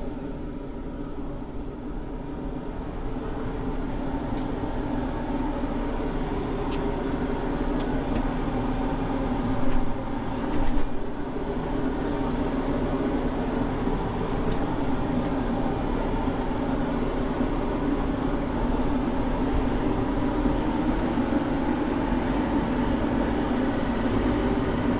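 Deutz-Fahr 6130 tractor's diesel engine running steadily under light load as the tractor backs slowly down off a trailer deck, with two clunks about ten seconds in.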